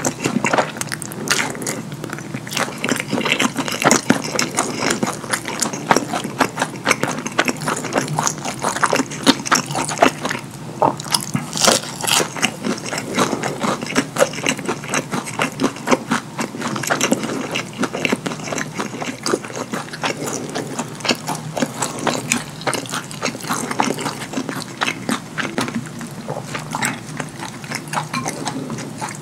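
Close-miked wet chewing and lip-smacking of fast food coated in cheese sauce: a dense, rapid run of sticky smacks and clicks.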